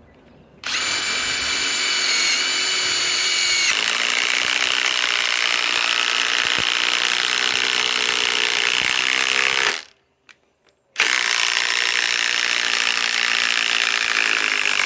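Ryobi PSBIW25 compact cordless impact wrench hammering a lag screw into wood. It starts under a second in and runs steadily for about nine seconds, with a whining tone over the first few seconds. It stops for about a second, then runs again.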